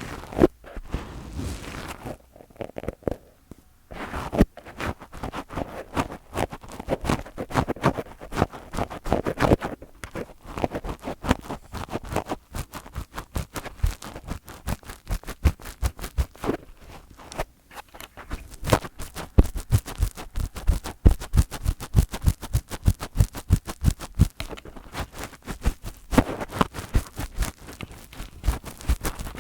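Fingers touching a microphone directly: rubbing, scratching and tapping on it in quick, uneven strokes, turning into a fast run of close taps about two-thirds of the way through.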